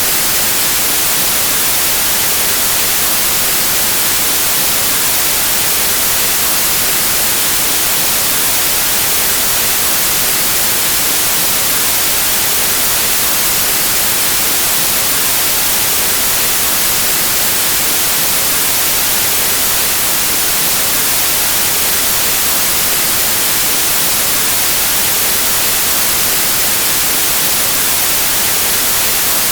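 Steady white noise, an unbroken even hiss with no change in level.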